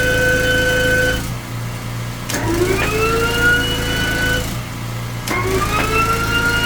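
A machine's motor whine that cuts off about a second in, then twice spins up with a rising pitch, holds steady and stops abruptly, like a power tool being triggered in short runs. Under it a steady low engine hum runs throughout.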